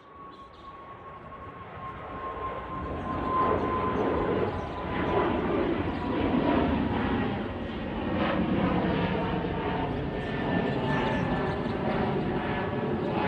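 Airplane's engines during a takeoff, growing louder over the first few seconds and then staying loud, with a steady whine that slowly falls in pitch.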